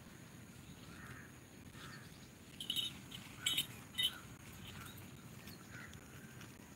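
Three short, sharp bird chirps close together, about three to four seconds in, over a faint outdoor background with soft, repeated distant bird notes.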